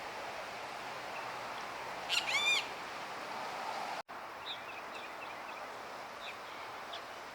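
A bird calling outdoors: a quick run of about five high, arched notes about two seconds in, followed after a brief break by faint short chips over steady background ambience.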